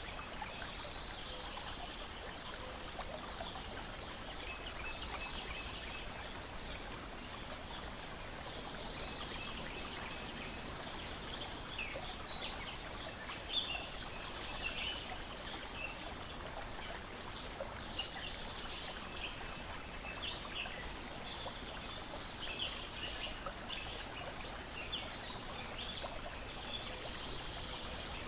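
Lakeside ambience: water lapping and splashing gently in a steady wash, with birds chirping and calling through it and the sharp pops and crackles of a wood fire, the loudest crack about halfway through.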